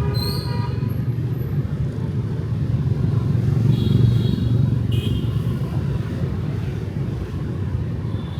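Street traffic of motorbikes and cars with a steady engine and tyre rumble that swells about four seconds in as a vehicle passes close. A short horn beep at the start and brief higher beeps around the middle.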